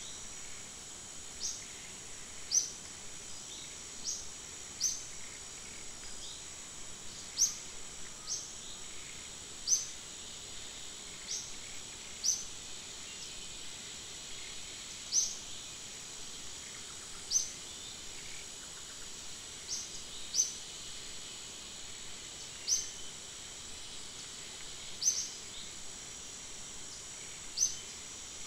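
Steady high insect drone with a bird repeating short rising chirps every second or two.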